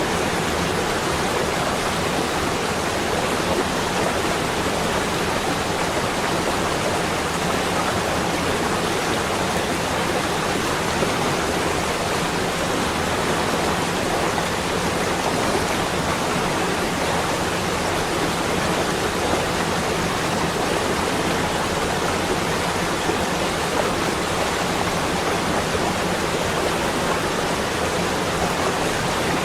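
Steady, unbroken rushing noise with no separate events, spread evenly from low to high.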